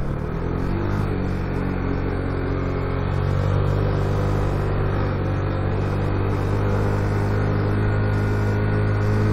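Motorcycle engine running at a steady cruise, with road and wind noise, a little louder from about three seconds in.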